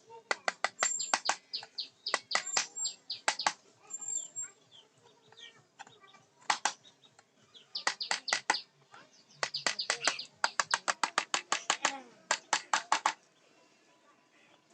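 Sharp, quick taps of a mallet driving a carving chisel into teak wood, in bursts of several strokes at about six to eight a second with short pauses between.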